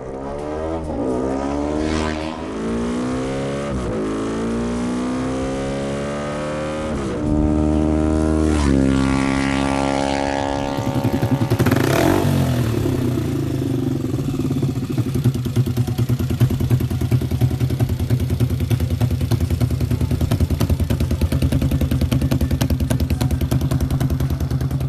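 Custom motorcycle engine sound samples: an engine revving up and down repeatedly, then, after a cut about ten seconds in, an engine running steadily with a fast, even pulse.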